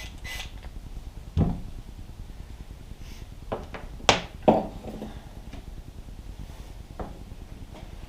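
Several separate knocks and clunks as a door handle and its backing are handled against a wooden door, the loudest two a little past the middle.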